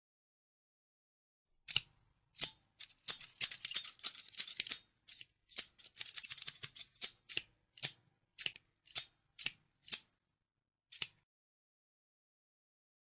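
Scissors snipping, with crisp blade clicks. After a silent start the clicks come in fast flurries, then slow to single snips about half a second apart and stop about two seconds before the end.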